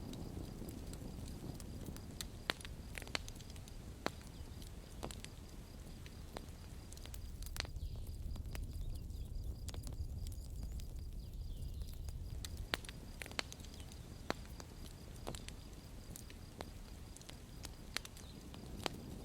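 Campfire burning: a low, steady rumble of flames with irregular sharp crackles and pops from the burning wood.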